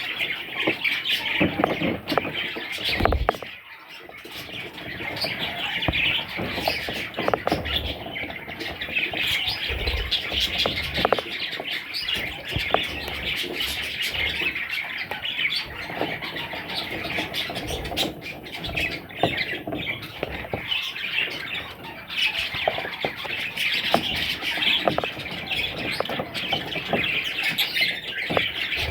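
Budgerigars chattering and squawking continuously, a dense mix of warbles and chirps, briefly dropping off about four seconds in.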